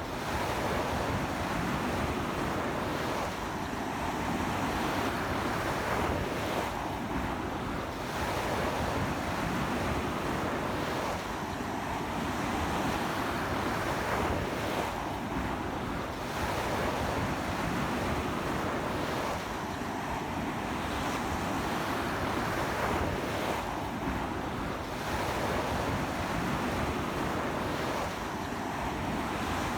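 Sea waves washing onto a beach in strong wind: a constant rush of surf that swells and eases about every four seconds.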